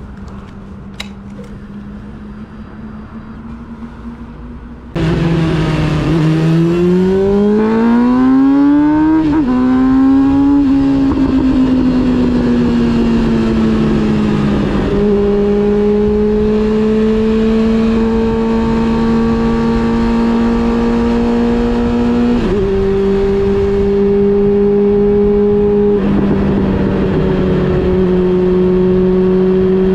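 Honda CB400 Super Four Revo's inline-four engine on the move. It runs at a steady lower level for about five seconds, then suddenly gets much louder and revs up, with a drop in pitch at a gear change around nine seconds in. It then settles into a steady cruise, with small shifts in pitch a few more times.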